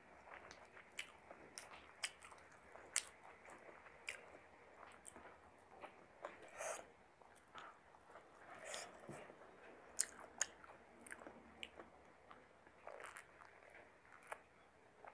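A person chewing a mouthful of chicken biryani, eating by hand: faint wet chewing with many short mouth clicks and smacks scattered irregularly.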